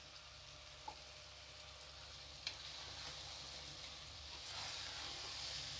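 Chicken masala with freshly added yogurt sizzling softly in a kadai as it is stirred with a slotted metal spatula, with a sharp tap about two and a half seconds in. The sizzle grows louder near the end.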